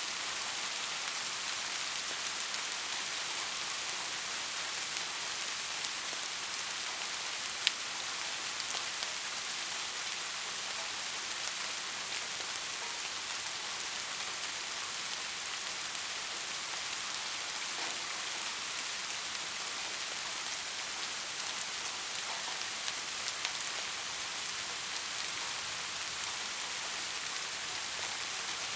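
Steady rain falling on surfaces, an even hiss of drops, with one sharp drip or tap about eight seconds in and a few smaller ticks later.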